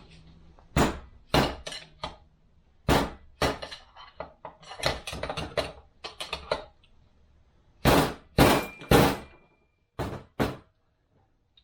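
Hammer blows on metal, about fifteen irregular strikes with a quick flurry in the middle, as a new bushing is driven into a 42RE automatic transmission part. One blow near the end leaves a short metallic ring.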